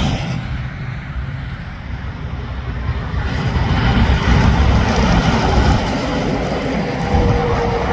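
Interstate traffic passing close by: heavy trucks and cars with a dense low tyre-and-engine rumble that grows louder about three seconds in. A steady humming tone rises out of it near the end.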